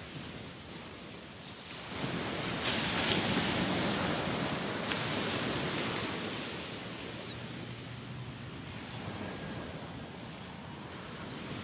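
Sea waves breaking and washing on a beach, one surge building about two seconds in and then easing off, with wind buffeting the microphone.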